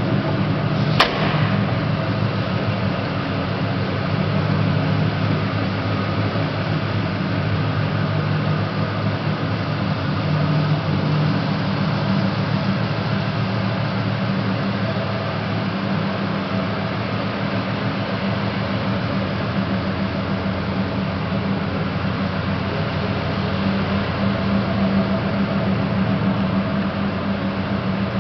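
A steady mechanical hum running without a break, with a single sharp click about a second in.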